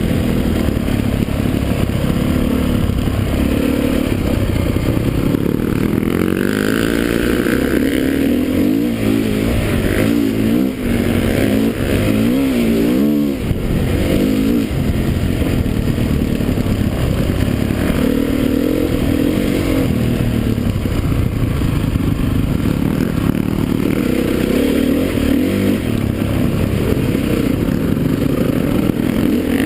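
Motocross motorcycle engines running and revving, their pitch rising and falling again and again as the bikes accelerate.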